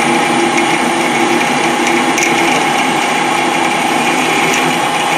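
Metal lathe running while a 9.5 mm drill bores into a piece of bar stock, a steady machine noise with a constant whine.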